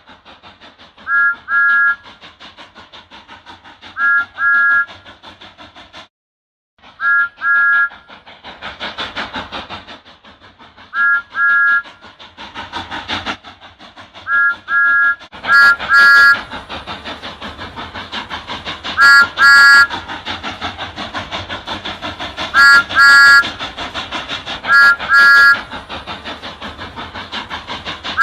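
Steam locomotive chuffing steadily, with short double whistle toots repeated every few seconds and bursts of steam hiss. The sound cuts out briefly about six seconds in.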